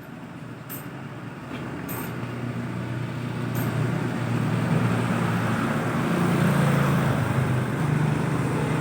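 Kawasaki Ninja 250 SL single-cylinder engine running through a ZX25R-style stock-design exhaust. It grows louder over the first four seconds or so, then holds steady.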